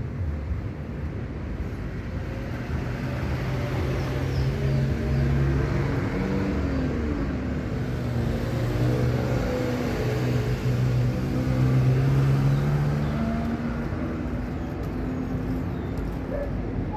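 A motor vehicle's engine running close by, a steady low hum whose pitch shifts up and down over several seconds, over street noise.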